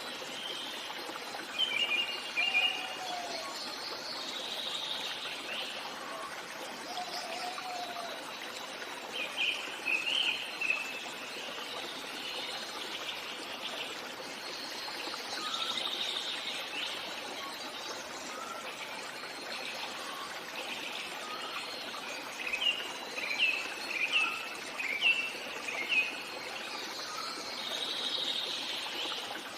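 Birds chirping in a few clusters of quick calls over the steady trickle of a stream.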